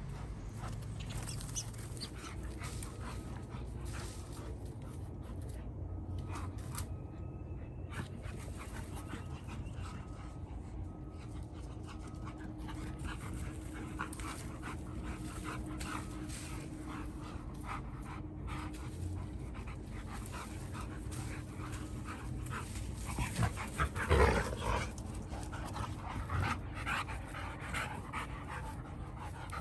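Rottweilers panting, with a louder burst of sound about three-quarters of the way through.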